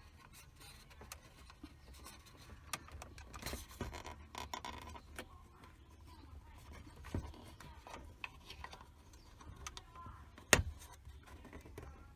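Plastic dashboard trim and wiring connectors of an Isuzu D-Max being handled and pushed into place: scattered light clicks and rubbing, with one sharp knock about ten and a half seconds in.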